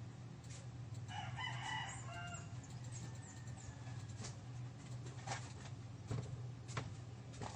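A rooster crows once, starting about a second in and lasting just over a second, over a steady low hum; a few light clicks follow later.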